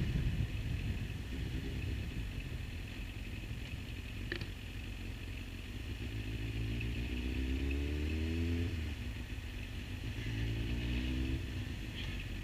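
Motorcycle engine running in city traffic, heard through a helmet-mounted action camera, with its pitch rising as it speeds up about seven seconds in and again near the end. A short click about four seconds in.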